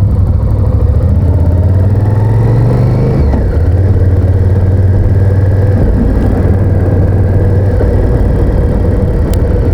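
Honda VTR1000F's 90-degree V-twin engine running steadily on the road, with wind noise over it. The engine note dips briefly a little over three seconds in, then settles back.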